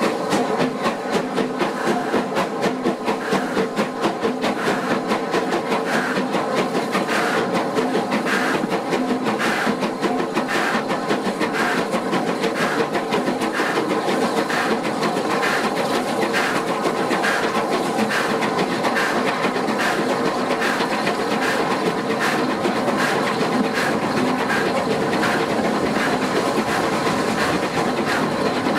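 Steam-hauled passenger train behind Bulleid West Country Pacific 34046 Braunton running along at speed, heard from an open carriage window: a steady rumble of wheels on the track with a regular clickety-clack rhythm.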